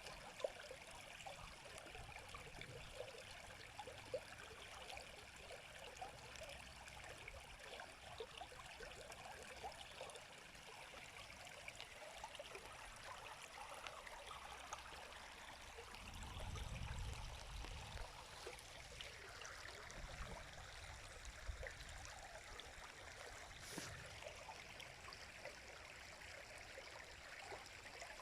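River water flowing and babbling steadily. A brief low rumble comes a little over halfway through.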